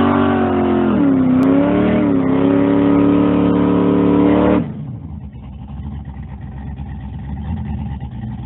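A car engine running loud, its pitch dipping and coming back up twice. About halfway through it drops suddenly to a quieter, rougher running sound.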